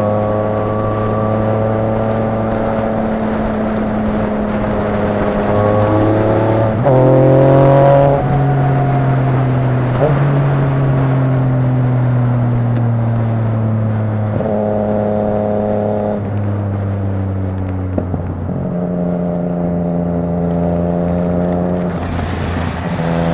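Motorcycle engine running at freeway speed, heard from the rider's own bike. Its note steps up and down several times and sags slowly in between, then climbs near the end as the bike accelerates.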